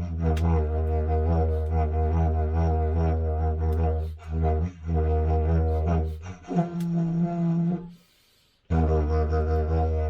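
Music: a low droning wind instrument with a rhythmic pulse. It shifts to a higher tone about six seconds in, breaks off briefly near eight seconds, then resumes.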